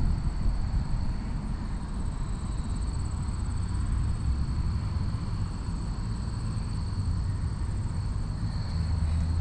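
Wind buffeting the microphone and road noise from a road bike in motion, a steady low rumble, with a thin steady high-pitched tone over it.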